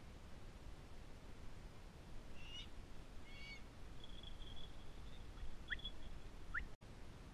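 Faint bird calls: a couple of short calls, a thin high held note, then two quick rising whistles, over a low rumble of wind on the microphone. The sound cuts out for an instant near the end.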